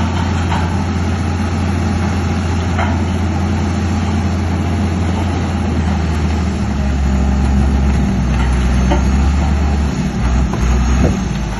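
Heavy diesel engine of a bulldozer running steadily, its note dropping lower and heavier about six to seven seconds in, with a few short sharp knocks.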